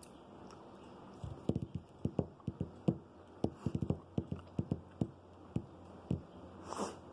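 Close-up chewing of a grilled cheese sandwich: a quick, irregular run of mouth clicks and smacks for about five seconds, then a short breathy hiss near the end.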